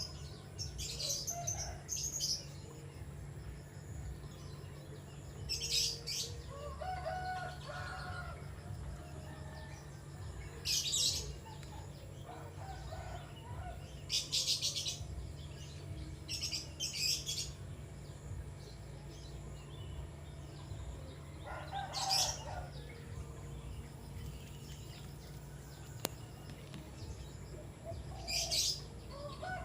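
A sunbird giving short, high, sharp chirps, about eight of them spaced a few seconds apart, over a steady low hum.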